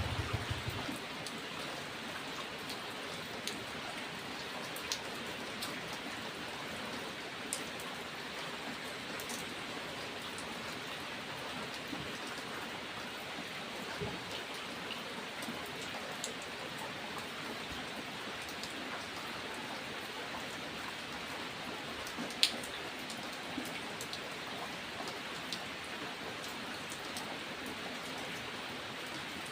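Steady rain falling, with scattered individual drops ticking on a surface; one sharper drop tick comes about twenty-two seconds in. A low rumble fades out in the first second.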